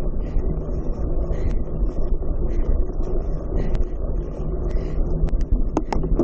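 Steady low rumble and buffeting noise, like wind and handling on a moving microphone, with a few sharp clicks or rattles near the end.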